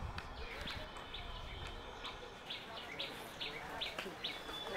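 A small bird calling, short high chirps repeated a few at a time, about two or three a second, with a pause in the middle.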